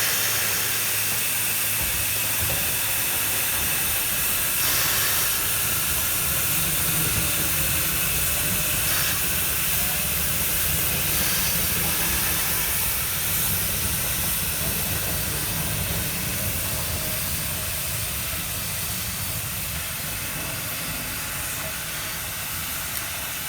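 Steam locomotive venting steam in a steady hiss over a low rumble, slowly fading toward the end.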